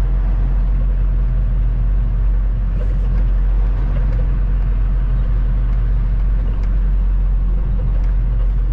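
Semi truck running, a steady low rumble of engine and road noise.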